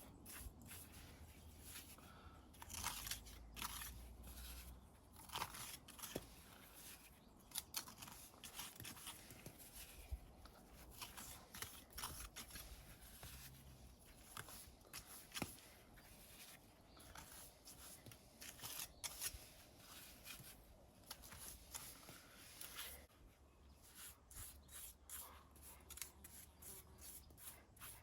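Faint, irregular scraping and clicking of a steel pointing trowel pushing mortar into the joints of a stone wall.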